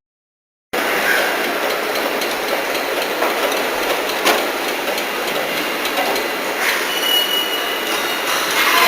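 Tank production-line machinery running: a loud, dense metallic clatter and rumble-free hiss of metalworking, with an occasional sharp knock and a brief high squeal about seven seconds in. It starts abruptly after a moment of silence.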